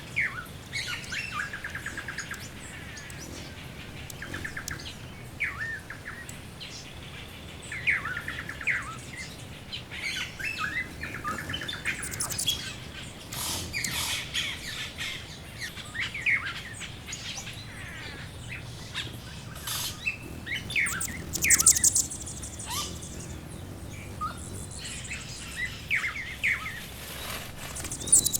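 Background birdsong ambience: several birds chirping and trilling in short, overlapping calls, with a louder burst of high twittering about three quarters of the way through.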